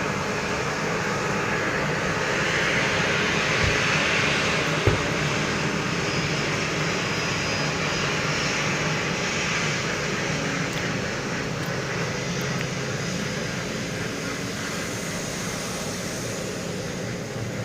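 Airbus A320neo jet engines at takeoff thrust, a steady loud rush that swells over the first few seconds and then slowly eases. A single sharp click about five seconds in.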